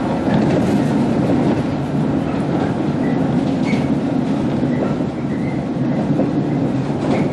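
Running noise inside a JR 115 series electric train: the MT54 traction motors and the wheels on the rails make a steady rumble, with a few short, faint high squeaks in the middle.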